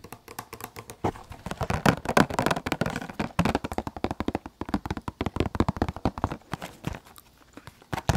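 Close-miked chewing of sticky, chewy dried jujube: a fast run of wet mouth clicks and smacks that fades out near the end.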